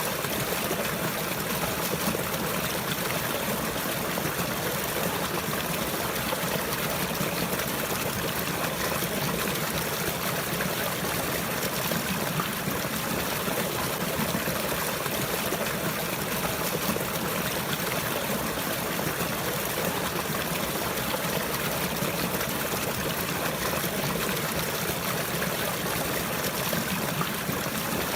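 Water flowing and trickling steadily, an even rush with no breaks or changes.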